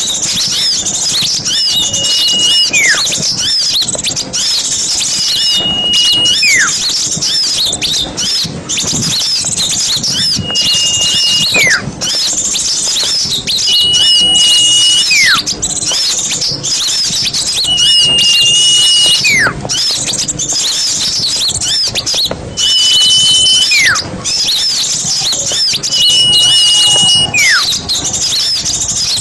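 Chorus of many small birds chirping and twittering busily, with one call repeating about every four seconds: a short steady high whistle, then a long whistle sliding downward.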